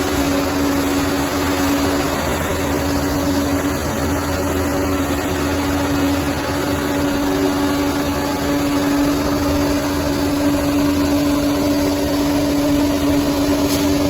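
Bulldozer's diesel engine running steadily under a low rumble, with a steady whine held over the engine note.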